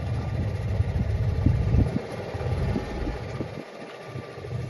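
Boat's motor running with wind buffeting the microphone, a rough low rumble that dips briefly near the end.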